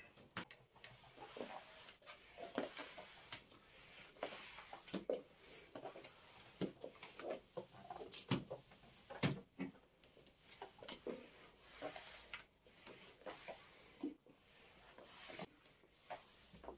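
Scattered light knocks, clicks and rustles of household objects being handled, irregular and spread over the whole stretch.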